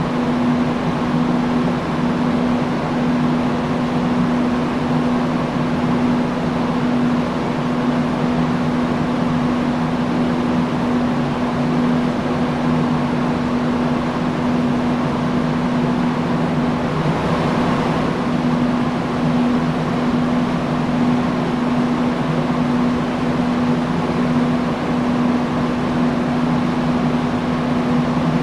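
Industrial fan running steadily: a broad rush of moving air with a constant low motor hum.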